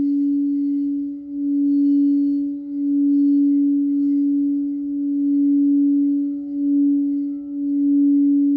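A crystal singing bowl sounding one sustained low tone with a faint overtone above it, its loudness slowly swelling and dipping every second or two.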